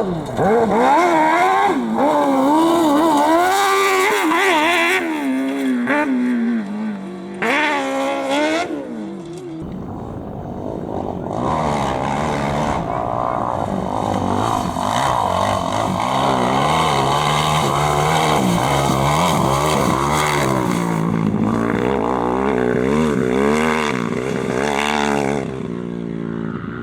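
Competition vehicle engine revving hard, its pitch rising and falling with throttle and gear changes. About nine seconds in the sound changes abruptly to another engine, which also revs up and down repeatedly.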